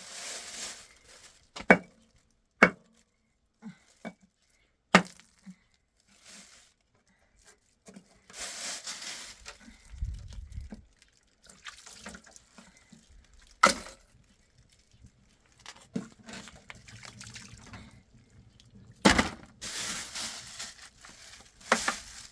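About six sharp knocks at irregular intervals, with stretches of rustling noise between them.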